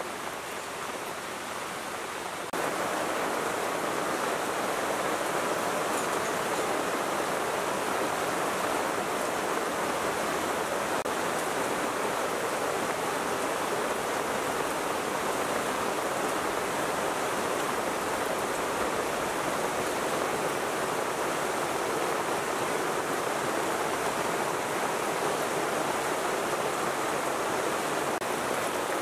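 Heavy rain falling steadily, a dense even hiss that steps up in level about two and a half seconds in and then holds unchanged.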